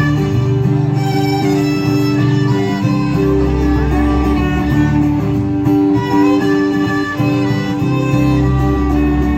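Live band music: a song carried by a fiddle-like melody over guitar and a steady bass line.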